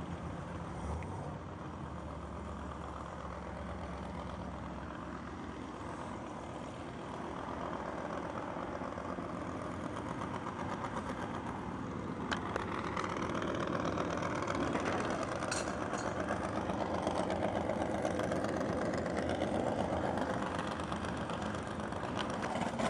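A drag car's engine idling steadily, growing louder and rougher about halfway through.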